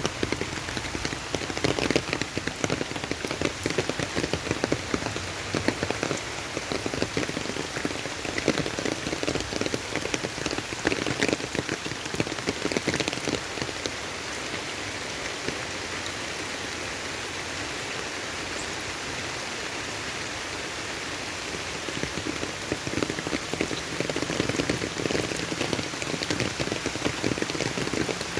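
Rain falling steadily, with many close drops striking a surface. The drop hits are densest through the first half and again near the end, with a more even hiss in between.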